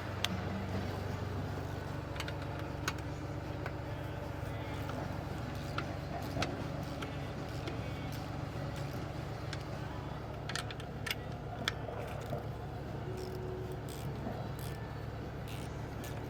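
An engine idling steadily, with scattered light metallic clicks and clinks of sockets and hand tools being handled.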